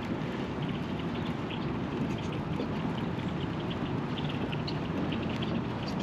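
Lakeside ambience after rain: many short, high animal chirps scattered over a steady low noise.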